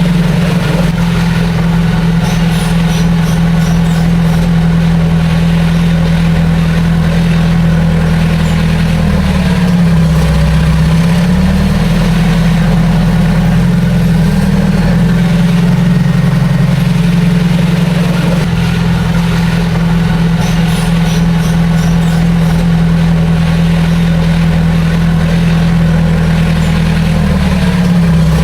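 Heavy diesel engine of an earthmoving machine running loud and steady. Its pitch dips briefly and recovers twice, about ten seconds in and again near the end.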